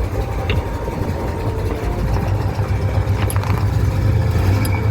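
A vehicle engine running steadily with a deep, even rumble, with a few faint light ticks over it.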